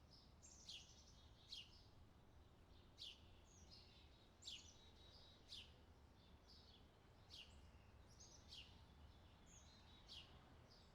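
Faint bird calls: sharp downward-sweeping chirps about once a second, with softer warbling between them, over a steady low background rumble.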